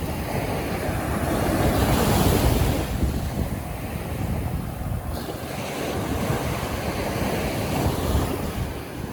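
Sea surf washing onto a beach, swelling to a peak about two seconds in and easing, then building again, with wind buffeting the microphone.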